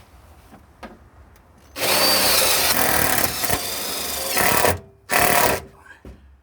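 Power drill driving self-tapping screws into aluminum sheet: one long run of about three seconds, then a short second burst.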